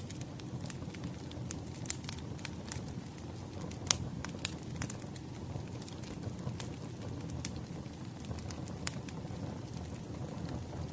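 Burning firewood: a steady low rumble of flames with irregular sharp crackles and pops from the logs. The loudest pop comes about four seconds in.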